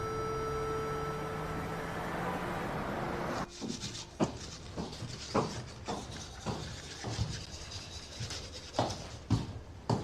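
Sustained notes of background music fade and cut off a little over three seconds in. Then come a series of irregular light knocks and clicks, as of someone moving about and handling things.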